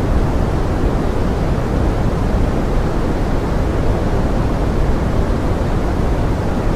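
Steady pink noise mixed as forest rain: an even, unbroken hiss weighted toward the low end, with no single drops or events standing out.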